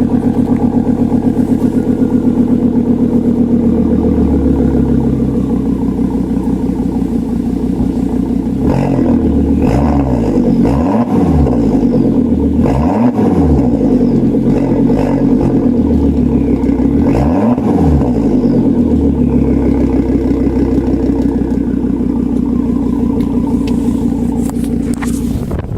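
2006 Volvo S80's 2.5-litre turbocharged inline-five running through a muffler-delete exhaust, not yet warmed up after a cold start. It idles steadily, is revved in a few blips in the middle, each rising and falling in pitch, then settles back to idle.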